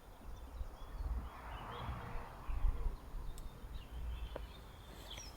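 Quiet outdoor ambience: scattered short, faint bird chirps over a low steady rumble.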